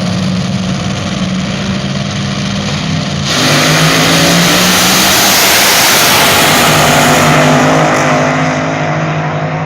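Front-engine A/Fuel dragster's supercharged Hemi V8 running loudly at low revs. About three seconds in it suddenly opens up to full throttle, a loud roar that holds for about five seconds and then begins to fade.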